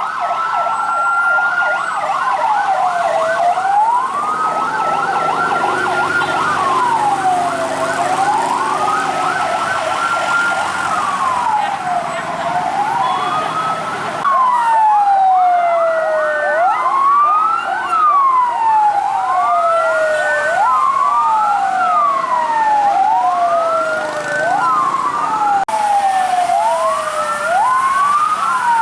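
Fire truck sirens wailing, several overlapping, each rising and falling. The wail is slow at first and a faster-cycling siren takes over about halfway.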